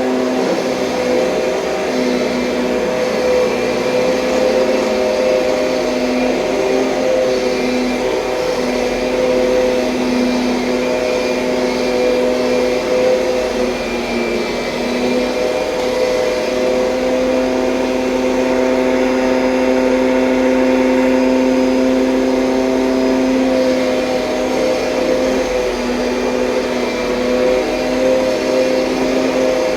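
2007 Kirby Sentria upright vacuum cleaner running steadily, a constant motor drone and airflow hiss whose pitch sags slightly now and then.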